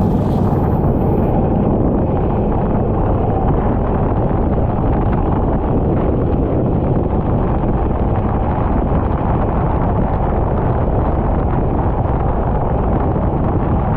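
Steady heavy wind buffeting on the microphone of an onboard camera on a moving kart, with the kart's engine running underneath.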